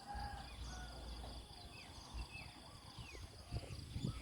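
Countryside morning ambience: small birds calling in short falling chirps a few times, over a steady high insect drone, with a low rumble underneath.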